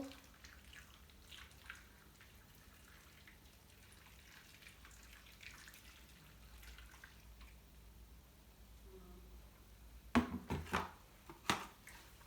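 Faint water trickling and dripping into a bowl, followed about ten seconds in by a few sharp knocks and clatters.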